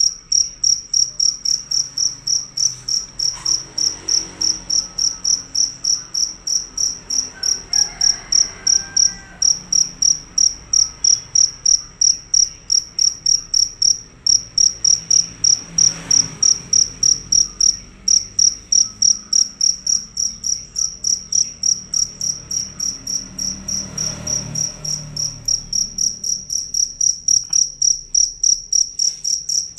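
Field cricket (jangkrik) chirping loudly and continuously: a high, pure chirp repeated evenly at about three to four chirps a second, with only a couple of brief breaks.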